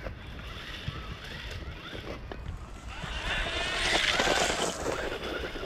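Brushless RC truck's electric motor whining up and down in pitch as it is driven, loudest from about three seconds in, over low wind rumble on the microphone.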